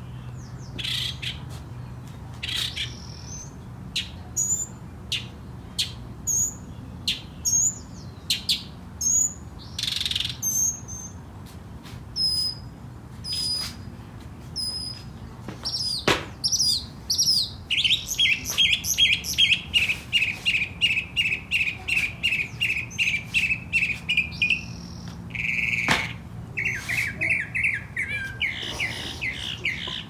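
A songbird calling and singing: scattered short, high chirps for the first half, then a fast, even run of repeated notes lasting several seconds, and a second, shorter run near the end.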